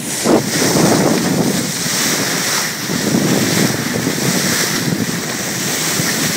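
Wind buffeting the microphone over the rush of water along the hull of a boat under way, a steady loud noise with no engine note standing out.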